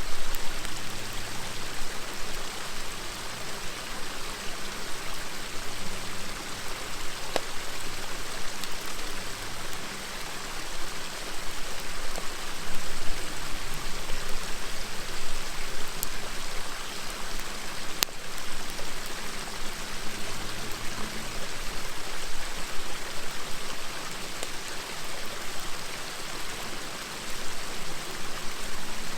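River water flowing steadily with a continuous rushing murmur, and a few sharp pops from a crackling wood campfire.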